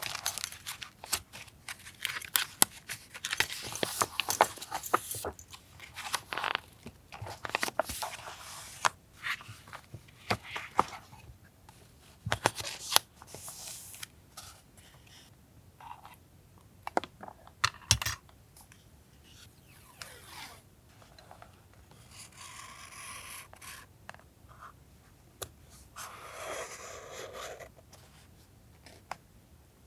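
Paper being handled for a journal collage: crisp crinkling, crackling and tapping in the first half, then sparser ticks and two longer drawn-out strokes of paper tearing or being cut past the middle.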